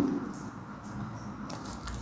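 Faint eating sounds over low room noise, with a few soft clicks near the end.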